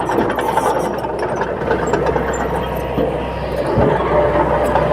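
A Komatsu D20 crawler bulldozer's diesel engine running steadily, with faint clicks over it.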